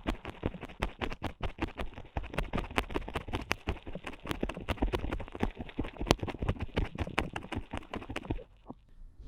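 Ear pick scraping and tapping inside the ear of a binaural ear microphone: a fast, dense run of close scratches and clicks that stops shortly before the end.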